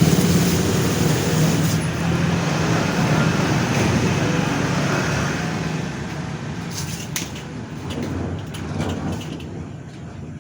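A motor running steadily under a loud hiss of noise, both dying down over the last few seconds, with a few sharp clicks near the end.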